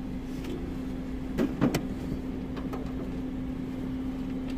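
Steady hum of a parked car idling, heard from inside the cabin. About a second and a half in there are a few brief clicks and short handling sounds.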